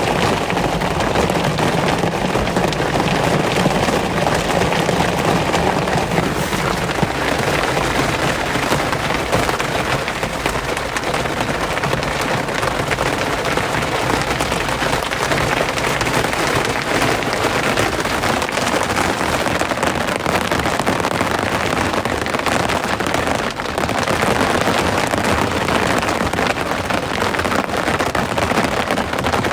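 Rain falling steadily, a dense patter of drops with a lower rumble under it that fades about six seconds in.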